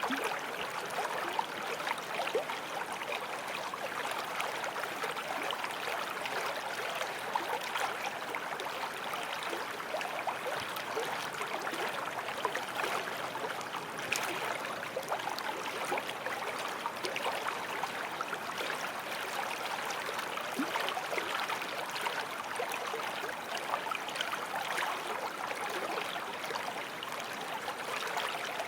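Small forest stream flowing over stones: a steady babble and splashing of running water.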